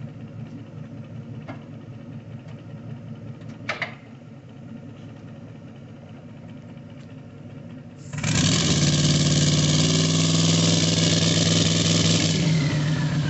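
Twin-turbo 6.0 LS V8 idling with two short clicks, then about eight seconds in it is brought up onto the two-step limiter at 2500 RPM against the trans brake. It holds there, loud and at a steady pitch, with a harsh hiss over it that stops about four seconds later, and a whine falls away near the end.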